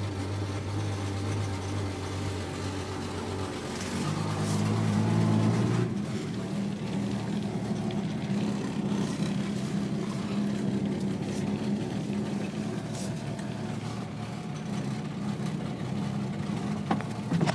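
1966 Ford Mustang's 200 cubic-inch inline six running after a cold start. It idles steadily, picks up about four seconds in as the car pulls away, then runs steadily at a higher speed. The exhaust has a bad leak at the last bend of the pipe.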